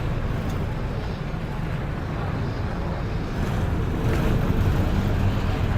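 River tourist boat's engine running steadily, with water and wind noise on the microphone; the rumble grows a little louder about four seconds in.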